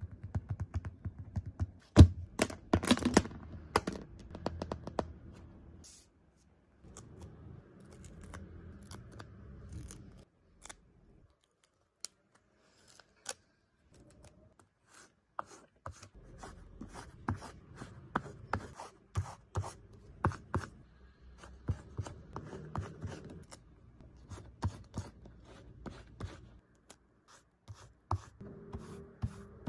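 Close-up paper-crafting sounds of planner stickers and paper being handled: sharp snips, clicks and crinkles with soft rustling, broken by short quiet pauses.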